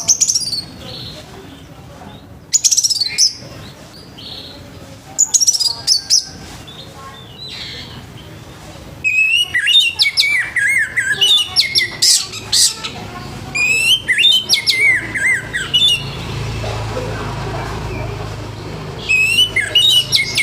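Orange-headed thrush singing: loud phrases of quick, sweeping whistled notes separated by short pauses, with the densest run of phrases in the middle. A low rumbling noise sits under a gap near the end.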